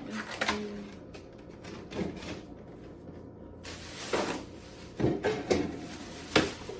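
Knocks and clunks of food containers and packages being taken out of and moved around inside a refrigerator, about six separate knocks with the loudest in the second half, and a short rustle near the middle.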